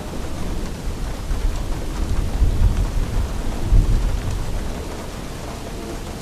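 Steady rain with a low roll of thunder that builds from the start, peaks twice in the middle, and dies away near the end.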